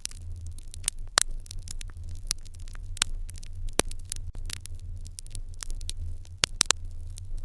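Fire crackling in an irori hearth: many irregular sharp pops and snaps, some louder than others, over a steady low hum.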